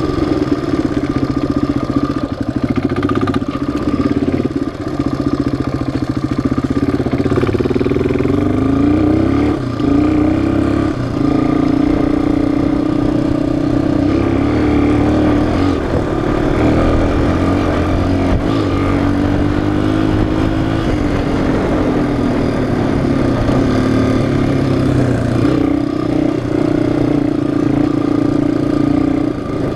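Single-cylinder four-stroke engine of a Yamaha ATV or dirt bike running under way on a trail ride, revs rising and falling several times with throttle and gear changes.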